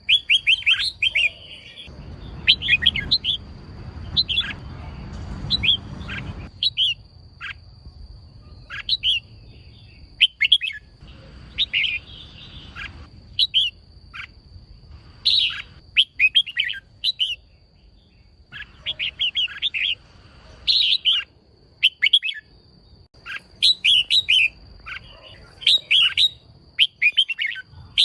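Female red-whiskered bulbul calling in short bursts of quick, high chirps, a burst every second or two. This is the call keepers play to stir male bulbuls into singing.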